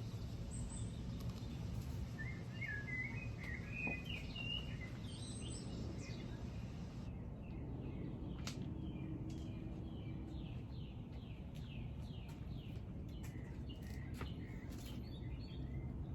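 Wild birds singing: scattered chirps, then a quick run of repeated descending whistled notes, over a steady low background rumble.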